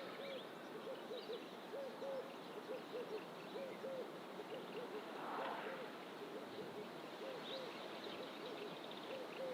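A bird giving a long, steady series of low hooting notes, about two a second, over fainter high chirps of other small birds.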